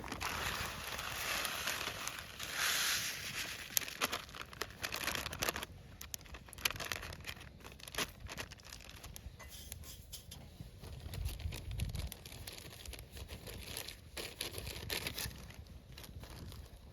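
Crinkling and rustling of something being handled, then quieter scattered light clicks and taps.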